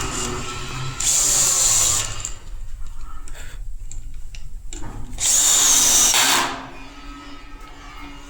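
Handheld power tool run in two short bursts with a high motor whine, the first about a second in and the second, a little longer, about five seconds in, with lighter handling clatter between.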